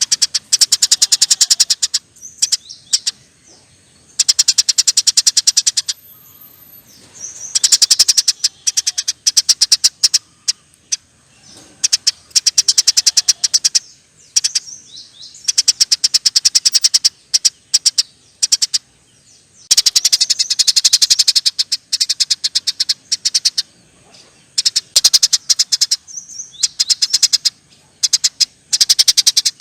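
Eurasian tree sparrow giving long, rapid chattering calls: trains of sharp, fast chirps in bursts of one to a few seconds, with short pauses between.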